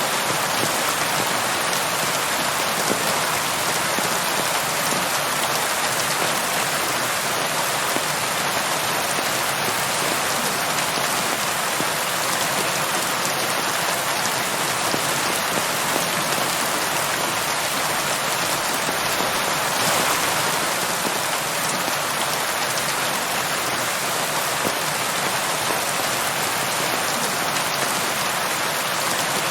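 Steady rain falling, a dense even hiss of countless drops, with a slight swell about twenty seconds in.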